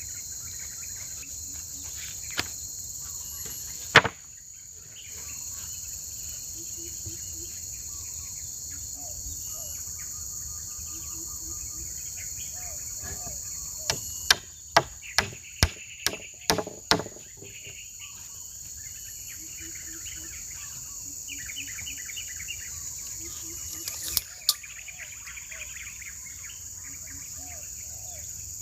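Steady high chirping of insects such as crickets runs throughout. Sharp knocks cut through it: a loud single strike about four seconds in, a quick run of about eight strikes in the middle, and a pair of strikes near the end.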